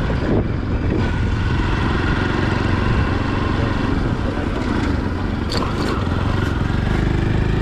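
Motorcycle engine running steadily while it is ridden, with a few brief clicks late on.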